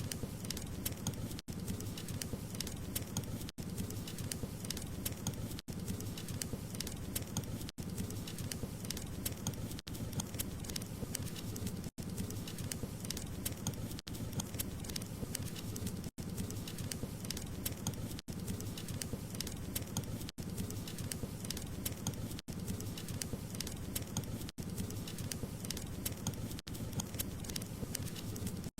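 Wood fire crackling: a steady hiss of burning logs with frequent small sharp pops and snaps, broken by very brief drop-outs about every two seconds.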